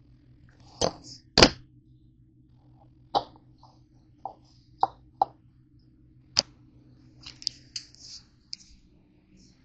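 Irregular sharp knocks and clicks of kitchen handling, two louder ones about a second in and lighter taps after, over a steady low hum.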